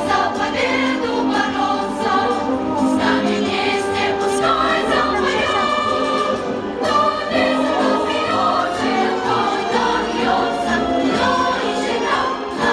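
Choral singing with instrumental accompaniment, continuous and steady in level.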